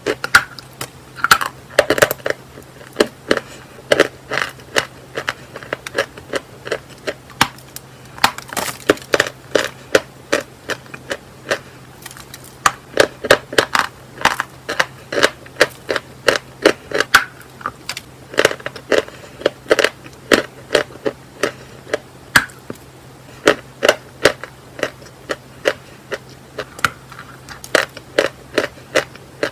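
Chalk being bitten and chewed: a long run of sharp crunches, about two or three a second, coming in quick clusters.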